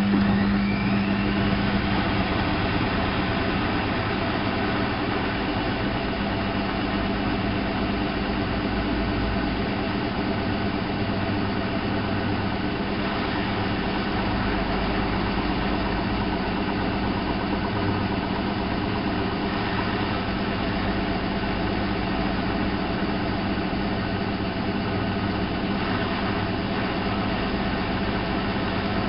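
Alaska WA8200 E front-loading washing machine running with a steady mechanical drone, a whine rising in pitch in its first second and a strong low hum that fades after about two seconds.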